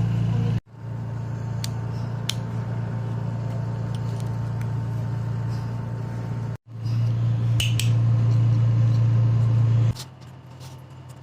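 Steady low mechanical hum, like a running engine heard from inside a vehicle, cut off abruptly twice; near the end it drops to a quieter, thinner hum.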